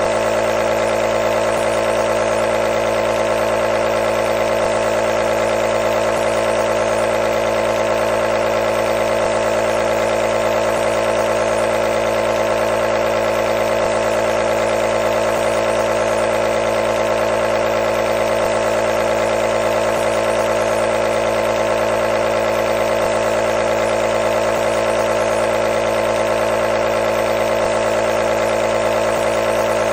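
Nebulizer running with a steady, unbroken hum.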